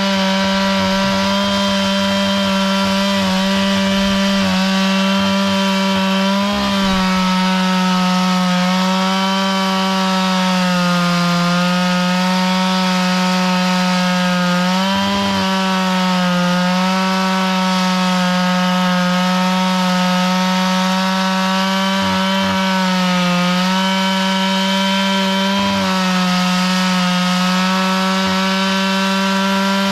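Small engine of a log-milling saw running at high speed under load while cutting wood, with its pitch sagging briefly every few seconds as the cut loads it.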